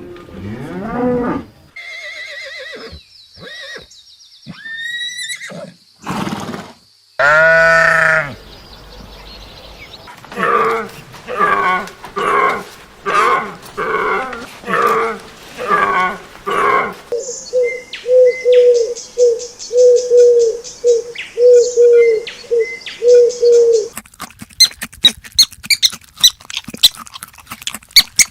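A run of different animal calls in turn: a loud drawn-out call, then repeated calls about once a second, then a quicker series of short calls at one steady pitch, and rapid clicking and chirping near the end.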